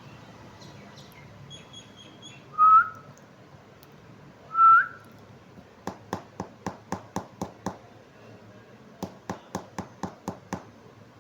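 Indian ringneck parrot giving two short, loud whistles that flick upward at the end, then two quick runs of sharp clicks, about four a second.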